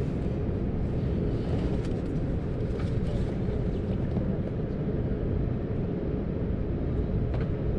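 Steady cabin noise inside an Airbus A220-300 airliner: a low rumble with an airy hiss over it and a few faint clicks.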